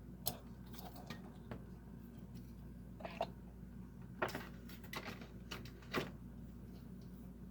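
Faint, scattered small clicks and light handling noises, about half a dozen spread out, from 1/64 diecast toy cars and their packaging being handled, over a low steady hum.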